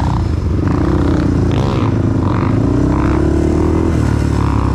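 Dirt bike engine running and being revved, its pitch climbing and dropping as the throttle is worked.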